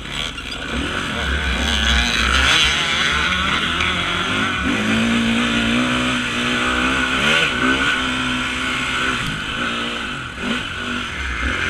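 Off-road motorcycle engine running under changing throttle, its pitch rising and falling, held steady for a few seconds midway, then climbing again.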